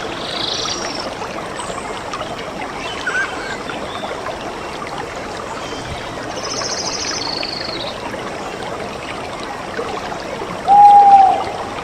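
A stream running steadily, with a few wild calls over it: a high chirp near the start, a rapid high trill in the middle, and a short, loud, clear single note near the end.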